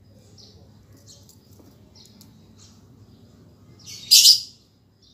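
Small birds chirping in the background, short high calls scattered throughout, with one much louder, harsher call about four seconds in.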